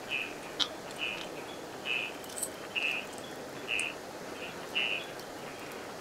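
Steady rush of a stream, with a short high chirp repeating about once a second from a calling animal.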